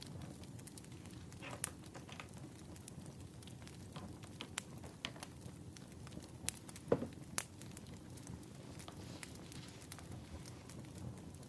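Wood fire crackling: irregular sharp pops and snaps over a low steady rumble, the loudest pop about seven seconds in.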